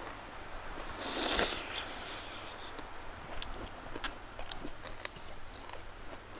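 Chewing and mouth sounds of people eating a meal of pork curry and rice: many small clicks and smacks, with one louder hissing, rustling burst about a second in.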